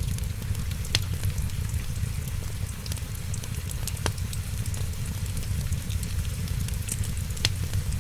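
Wood fire crackling over a steady low rumble, with three sharper pops from the burning wood spread through the few seconds.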